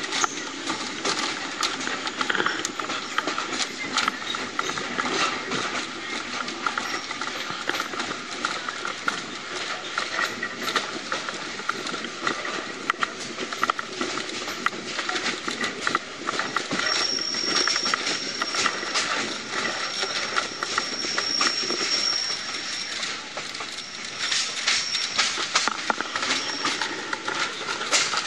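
Excursion train rolling along, heard from an open-sided passenger car: steady running noise with a quick, irregular clatter of wheels over the track. A thin, high wheel squeal comes in about seventeen seconds in and holds for around six seconds, with shorter squeals after it.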